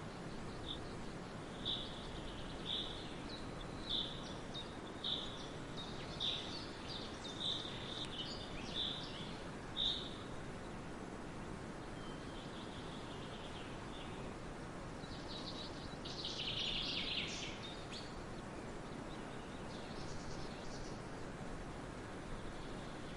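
A bird repeating a short high call about once a second for the first ten seconds, then a brief burst of busier chirping, over a steady hiss of ambient outdoor noise.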